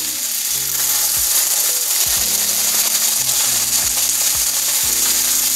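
Okra frying in a hot nonstick skillet, sizzling and spattering as canned tomato sauce is poured in. Background music with a low bass line plays underneath.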